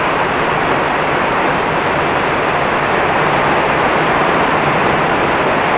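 Heavy rain pouring down hard, a steady unbroken hiss of the downpour.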